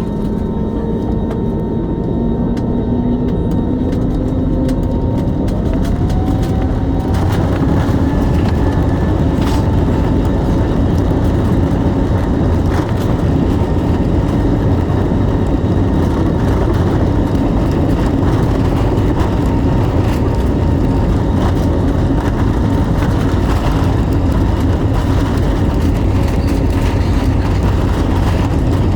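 Airbus A320neo jet engines spooling up to takeoff power. A whine rises in pitch a few seconds in, then settles into a loud, steady rumble of full takeoff thrust.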